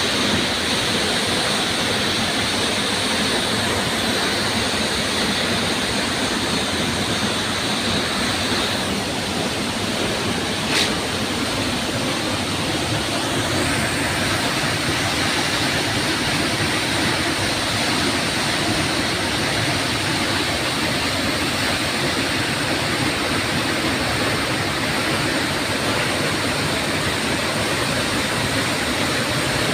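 Waterfall rushing steadily, with a single short click about eleven seconds in.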